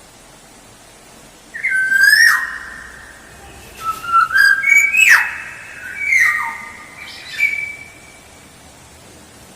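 Black-naped oriole calling: after a short pause, a run of loud, clear whistled notes, several ending in sharp downward slurs, coming in clusters.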